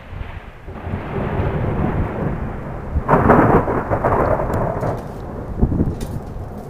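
Thunder rumbling after a lightning flash, building up and swelling loudest about three seconds in before easing off, with rain falling throughout.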